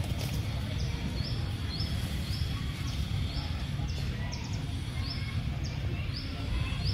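A bird repeating a short, high, upward-slurred chirp at an even pace, about three notes every two seconds, over a steady low rumble of outdoor noise.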